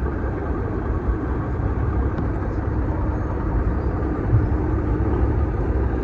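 Heavy truck's diesel engine running steadily with a low rumble as the truck drives past.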